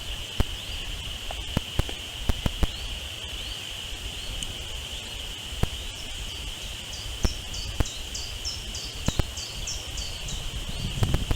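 A steady, high insect drone with scattered sharp clicks. About seven seconds in comes a quick run of high bird cheeps, about four a second, lasting some three seconds.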